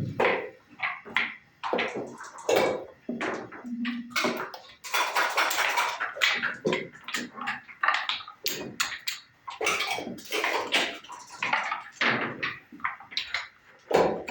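Backgammon game noise: dice rattled in a cup and thrown, and checkers clicking down onto the board, a quick run of sharp clacks with a longer rattle about five seconds in.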